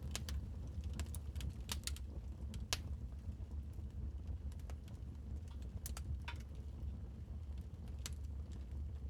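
Fireplace fire crackling: irregular sharp pops and snaps, a few of them louder, over a steady low rumble.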